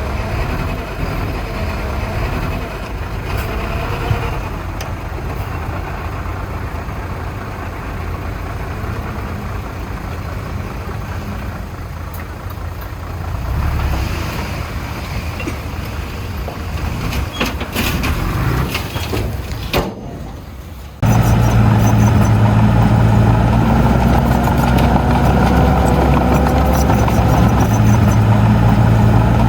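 Diesel engines of heavy earthmoving machinery running: a rougher, more distant engine at first, then, after an abrupt cut about 21 seconds in, a louder, steady engine running close by.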